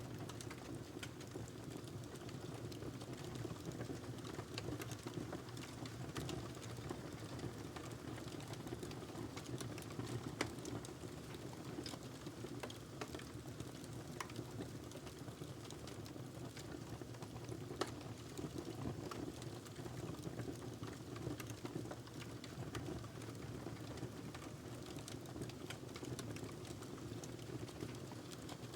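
Burning log crackling in a fireplace: a steady low hiss of flame under frequent small, sharp crackles, with two louder pops about ten and eighteen seconds in.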